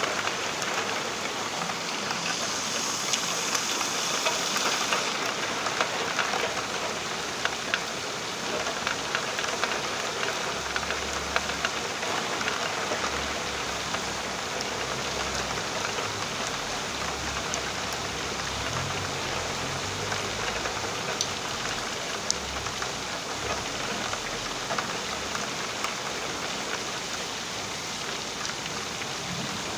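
Steady rain falling, a dense hiss with many individual drops ticking on a surface. A faint low rumble comes and goes in the middle.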